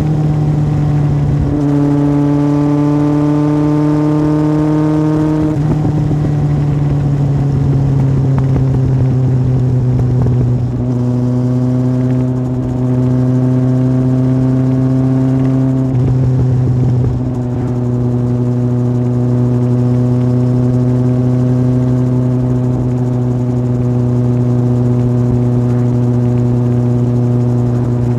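Yamaha Fazer 1000's inline-four engine running through a MIVV aftermarket exhaust while riding at a steady pace. The pitch holds or creeps up slowly and shifts in small steps a few times.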